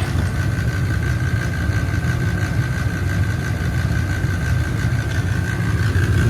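Carrier 80 percent gas furnace running on a heat call with its burners lit: a steady low rumble with a steady high-pitched whine over it.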